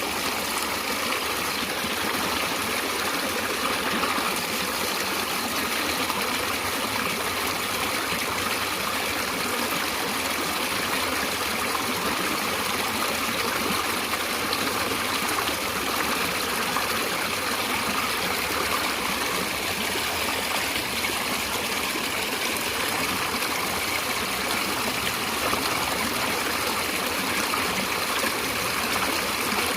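Natural running water flowing steadily, an even rush with no breaks or changes.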